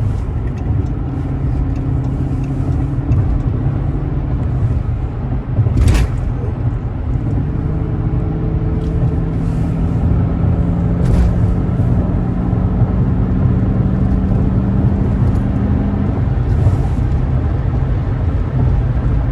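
2012 Dodge Charger R/T's 5.7-litre Hemi V8 on its stock exhaust, heard from inside the cabin with the windows up, droning steadily as the car drives. The engine note rises slowly from about seven seconds in until about sixteen seconds in, and a sharp click sounds about six seconds in.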